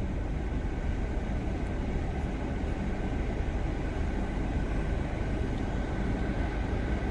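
Steady road and engine noise inside a moving car's cabin: an even low rumble with a faint steady whine.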